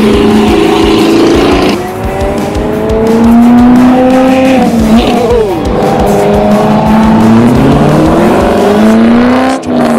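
A car engine revving loudly, its pitch climbing and falling in long sweeps, with a quick sharp rev blip about five seconds in.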